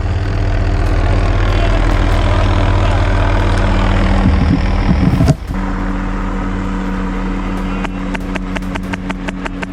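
A vehicle engine running steadily close by, with an abrupt change in its sound about five seconds in. Near the end comes a quick string of sharp clicks.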